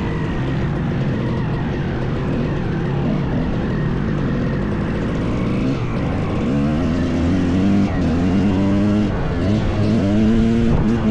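Two-stroke dirt bike engine under way. In the second half it revs up three times, each rise followed by a drop, like shifting up through the gears.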